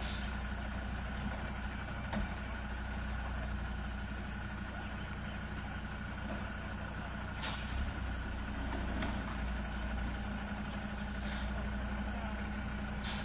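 Tanker truck's diesel engine idling steadily, with a few short hisses of air.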